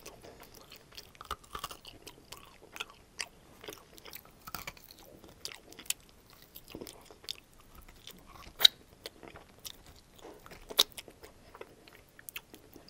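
Close-miked eating of a barbecue rib topped with crispy fried onions: biting meat off the bone and chewing, with wet smacks and light crunches. Two sharper, louder clicks come about two-thirds of the way through.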